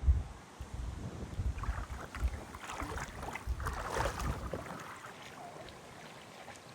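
Wind buffeting the microphone in low gusts, the strongest right at the start, over water splashing and lapping that builds to a peak about four seconds in. Both die down after about four and a half seconds.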